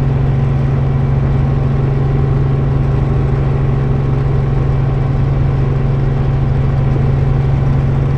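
Helicopter in flight: a steady, unbroken drone of engine and rotor with a strong low hum.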